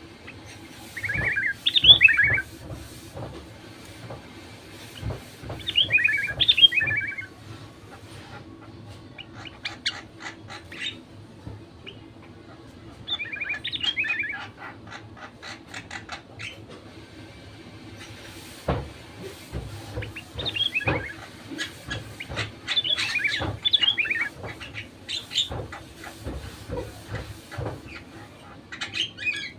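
Sooty-headed bulbul singing: short, bubbly warbled phrases repeated every few seconds, about six in all. Scattered clicks and knocks and a low steady hum run underneath.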